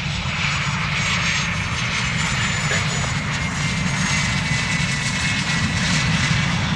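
Fixed-wing aircraft engines running steadily: a continuous low rumble with a faint high whine.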